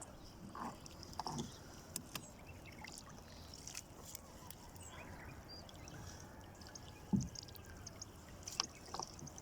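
Water trickling and dripping around a small boat, with scattered light knocks and one heavier thump about seven seconds in, as a fishing net is worked in from the water.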